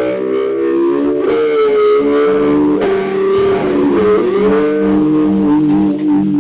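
Electric guitar holding long sustained notes, bending the pitch down and back up about four seconds in, with a lower note repeating underneath as a rock band's song winds down.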